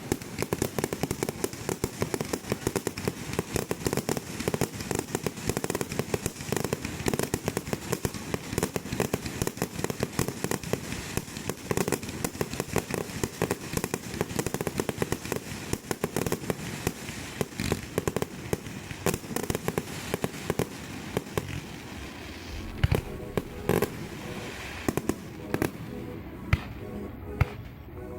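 Fireworks display in a dense barrage: rapid bangs and crackles, one after another without a break, with background music underneath.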